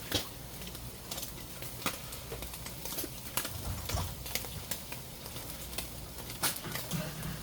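Food sizzling on a hot surface, a steady hiss broken by irregular sharp crackles and pops.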